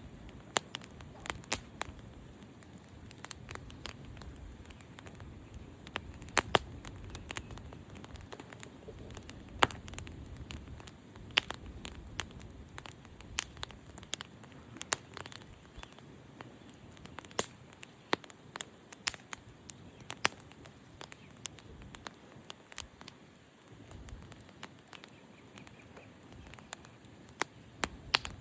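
Wood fire burning with irregular sharp crackles and pops over a soft low rumble of the flames.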